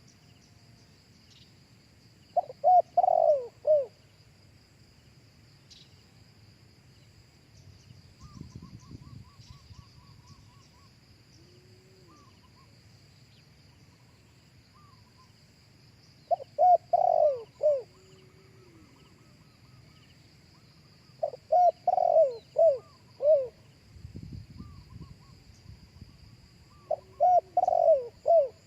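Spotted dove cooing: four loud phrases of several falling notes each, spaced several seconds apart. A steady high insect buzz runs behind.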